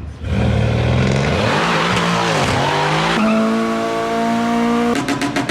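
A car engine revving hard with tyre squeal: the pitch falls and rises, is then held steady at high revs, and breaks into rapid, even pulsing near the end.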